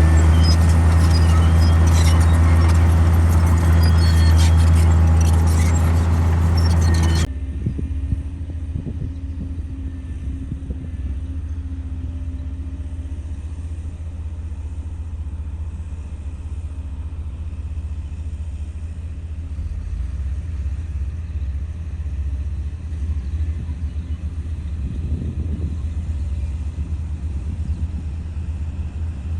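Komatsu D58E crawler bulldozer's diesel engine running hard and steady. About seven seconds in, the sound drops abruptly to a quieter, rougher low rumble that carries on to the end.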